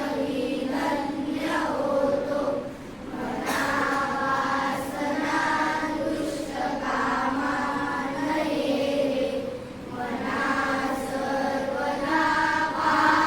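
A group of children chanting in unison, long held notes in phrases of a few seconds with brief breaks between them.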